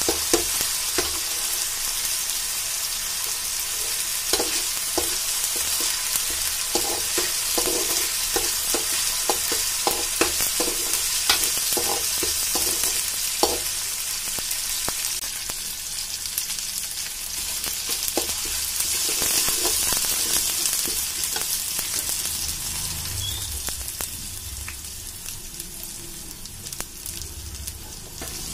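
Chopped onions sizzling in hot oil in a metal kadai, stirred with a perforated steel ladle that scrapes and clicks against the pan. The clicks come often in the first half and thin out later, and the sizzle eases off a little toward the end.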